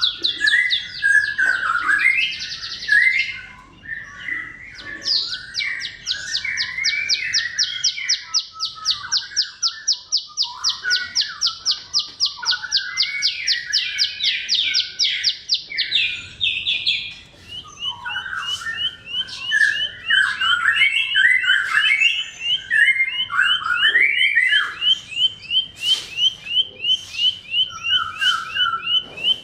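Bar-winged prinia (ciblek) singing: long, fast trills of repeated high notes, a new, lower and quicker trill starting just past halfway, over a running jumble of varied chirps and twitters.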